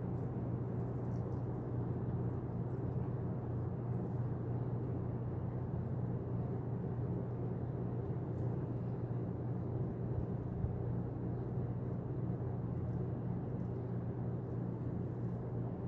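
A steady low rumble with a constant hum underneath, unchanging throughout.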